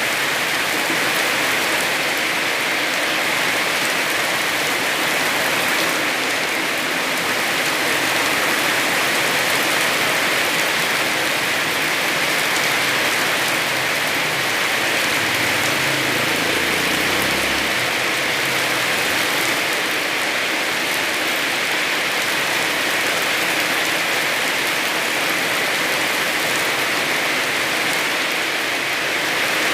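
Heavy rain falling steadily, a dense even hiss of countless drops. A brief low rumble sounds about halfway through.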